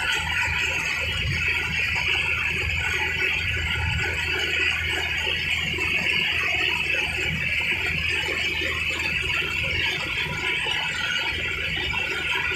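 Tractor engine running steadily under way, an even, unbroken drone with a hiss-like upper band.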